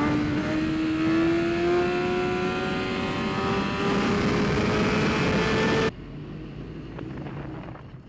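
Racing motorcycle engine pulling hard, its pitch rising steadily for about six seconds, then cutting off suddenly to a quieter background about six seconds in.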